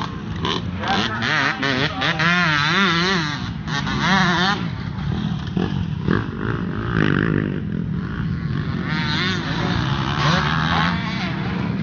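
Motocross dirt bike engines running hard, the pitch wavering quickly up and down as the throttle is worked, over a steady background of other bikes.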